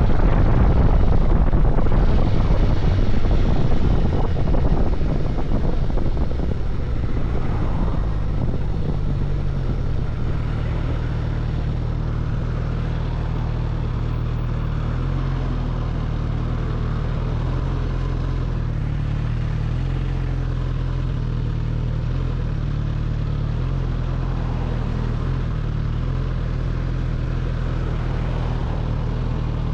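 Suzuki GSX-S1000GT's inline-four motorcycle engine with wind rush on the helmet or bike microphone; the wind noise and overall level fall off over the first several seconds as the bike slows, then the engine idles steadily.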